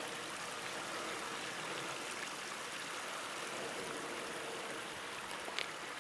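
The Danube flowing, a steady rush of running water. A single short click comes near the end.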